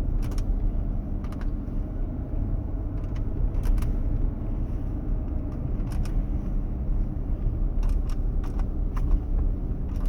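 Dashboard climate-control buttons clicking, pressed about ten times at uneven intervals in repeated tries to switch on an air conditioner that won't come on. Under them runs the steady low rumble of the idling truck.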